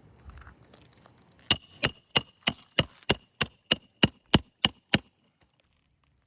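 A hammer driving a roofing nail through an asphalt shingle: about a dozen sharp, evenly spaced blows, roughly three a second, each with a short metallic ring. This is the last nail of a shingle repair.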